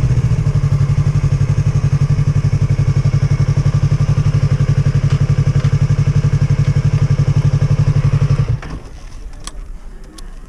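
Motorcycle engine idling with a steady, even pulse, then switched off about eight and a half seconds in, followed by a few faint clicks.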